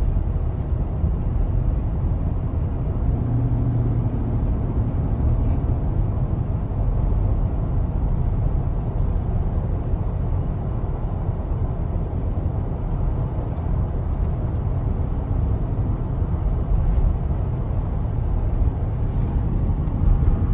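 Engine and road noise heard from inside a moving truck's cabin: a steady low rumble.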